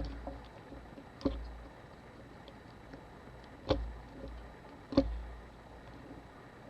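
Sharp clicks and taps of small tools and a camera body being handled on a workbench: three distinct clicks, the loudest about five seconds in, with a few fainter ticks and soft low thumps.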